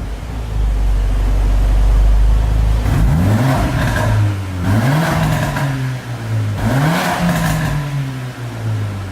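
Mercedes-Benz A45 AMG's turbocharged 2.0-litre four-cylinder running through an Armytrix valved exhaust: a steady low rumble, then three sharp revs about three, four and a half and seven seconds in, each rising and falling back.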